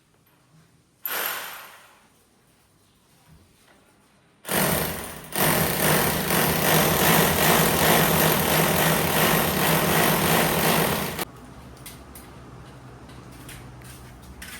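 Electric hammer drill boring into a wall: a short burst about a second in, then a loud continuous run of about seven seconds that stops abruptly.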